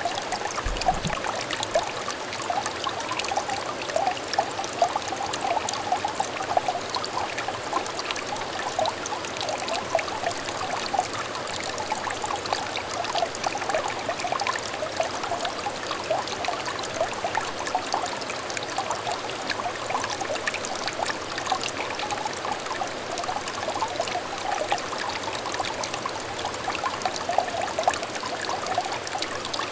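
Water trickling in a shallow clear stream: a steady, continuous babble of small gurgles and splashes.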